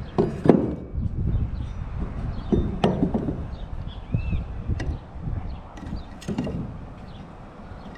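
Irregular knocks and clicks of belt tensioner assemblies (old and new) being handled and set against each other, with the strongest knocks about half a second in and near three seconds.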